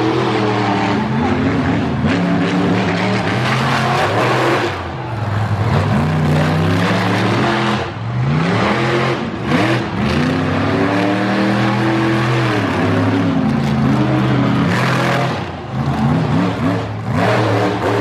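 Monster truck engine at full throttle, revving up and down again and again, its pitch repeatedly rising and falling, with brief drops in loudness as the throttle is lifted.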